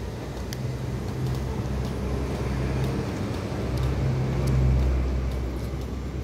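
Road traffic: a motor vehicle's engine runs close by, growing louder to a peak about four and a half seconds in and then easing off.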